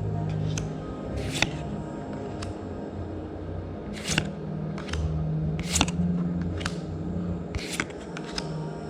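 Magic: The Gathering trading cards being handled: short swishes and light snaps as cards are slid off the stack and flicked past one another, one every second or so, over a low steady hum.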